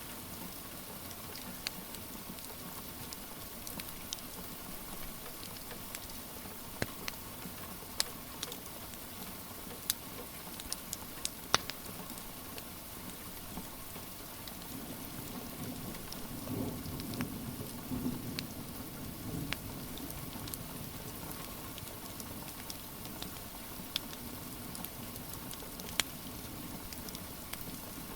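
Steady rain with a wood fire crackling, sharp pops scattered through it. About halfway through, a low rumble swells for a few seconds and fades.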